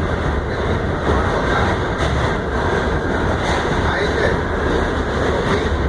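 Inside an R68A subway car running at speed: a steady low rumble with rail and wheel noise that does not let up.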